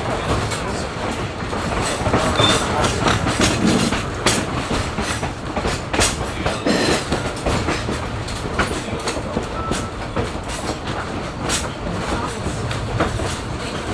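Passenger railroad car rolling along the track: a steady low rumble with irregular wheel clicks and clunks over the rails.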